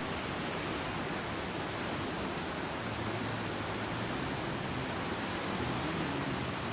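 Steady, even rushing of flowing water, with a faint low hum joining about halfway through.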